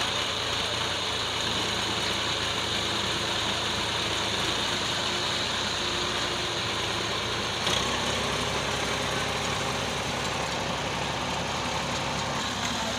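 Tractor engine running steadily under load, driving a brick-making machine through its rear wheel. Just under eight seconds in the deepest part of the hum drops away.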